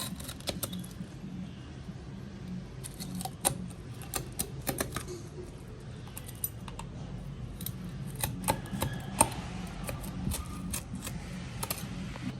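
Irregular sharp clicks, taps and scrapes of kitchen tools working on a fish, over a steady low hum.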